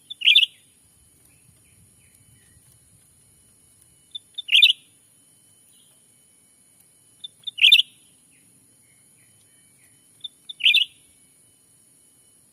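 Cucak ranting bird call used as a trapping lure, repeated four times about every three seconds. Each call is two short faint pips followed by a louder falling note, over a steady faint high hiss.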